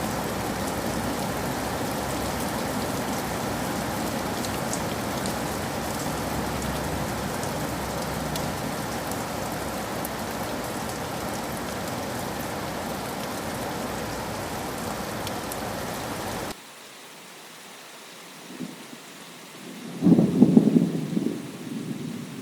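Steady rain that cuts off abruptly about three-quarters of the way through, followed by a quieter stretch of lighter rain and then a loud rumble of thunder about two seconds before the end.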